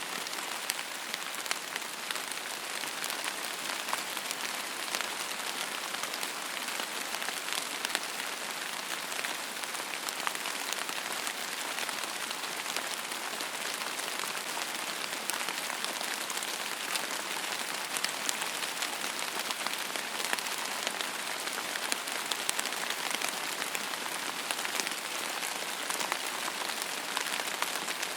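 Steady rain falling on a hard surface, a dense even hiss with many small sharp drop ticks.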